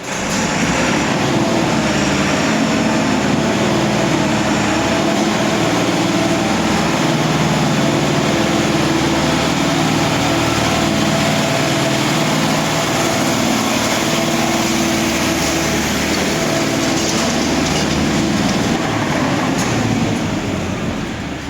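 A heavy engine running steadily at constant speed, starting abruptly and dropping away near the end.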